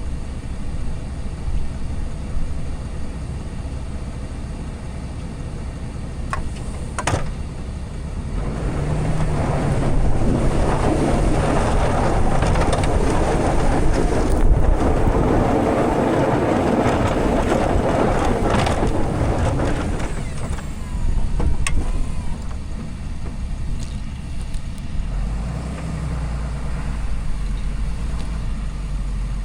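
Diesel pickup truck running under way while plowing snow. A louder rushing noise builds for about ten seconds in the middle, and there is a single sharp click about seven seconds in.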